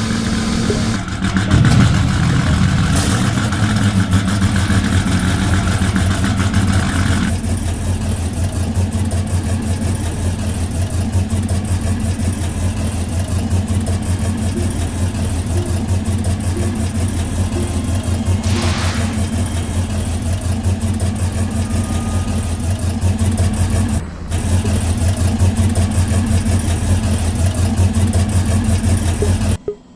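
A car engine running loud and close, steady throughout, with a brief drop-out about 24 seconds in.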